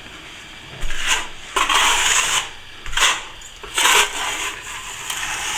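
Steel plastering trowel scraping over wet finish plaster in a series of strokes, about one a second, polishing the surface smooth after it has been wetted with water.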